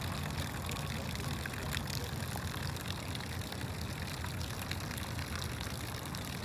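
Water running steadily with an even hiss, over a low hum.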